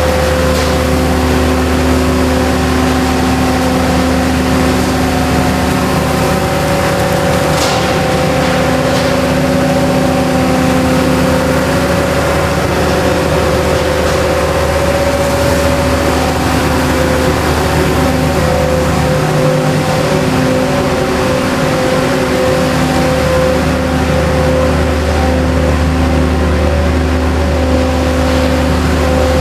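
The machinery of a rail tunnel-cleaning train with suction and washing equipment, running as a steady loud drone with constant humming tones. The deepest hum drops out briefly about twenty seconds in.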